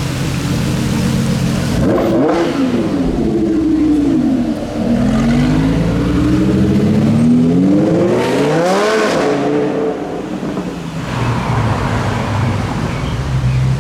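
Supercar engine idling, then revved: its pitch sweeps up and down about two seconds in, climbs for several seconds to a peak near nine seconds, falls away, and settles back to a steady idle.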